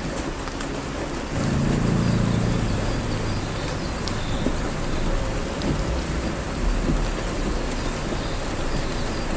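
Heavy rain pouring steadily, with a louder low rumble from about one to three seconds in.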